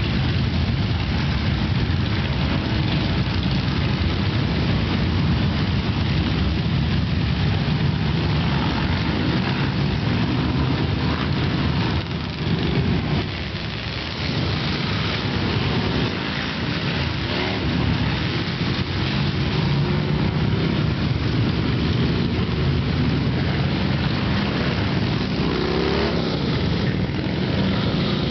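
A stream of motorcycles riding past in procession, their engines running together in a continuous rumble. The level dips briefly about halfway, and near the end single engines are heard rising and falling in pitch as they pass.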